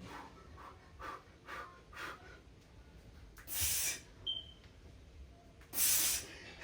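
A man breathing hard from the exertion of a weight-training set: softer breaths, then two long, heavy, hissing breaths about two and a half seconds apart. A brief faint high tone sounds between them.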